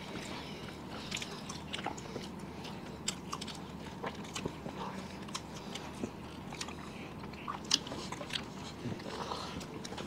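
People biting and chewing soft burgers, with small wet mouth clicks and crunches scattered throughout and one sharper click about three-quarters of the way through.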